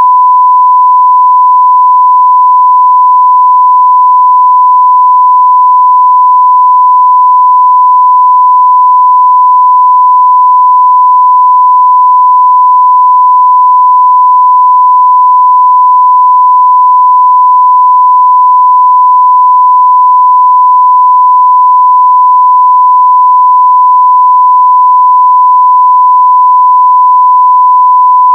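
Pure 1 kHz sine-wave test tone at full level (0 dB test signal), held perfectly steady with no other sound.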